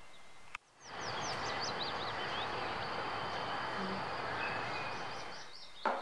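Small birds chirping repeatedly over a steady outdoor background hiss, which fades in about a second in. Near the end a drinking glass is set down on a tabletop with a sharp knock.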